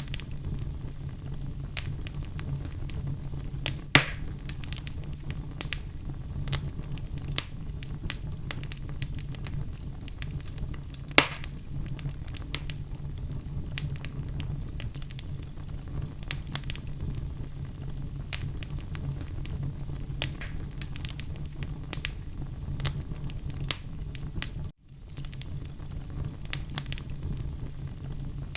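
Wood fire burning in a fireplace, crackling with frequent small pops over a low steady rumble, and two sharp loud pops about 4 and 11 seconds in. The sound cuts out for an instant a few seconds before the end.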